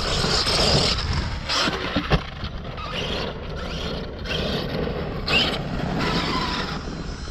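Large 1/5-scale brushless RC monster truck (Arrma Kraton) driving on rough dirt, with electric motor whine surging under throttle. The tyres scrape and gravel crunches, and there are sharp knocks about two seconds in.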